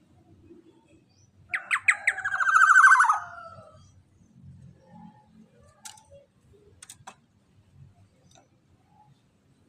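Black-naped oriole call, starting about a second and a half in: a few sharp notes run into a fast rattling call that drops in pitch and fades out about two seconds later. Faint ticks follow.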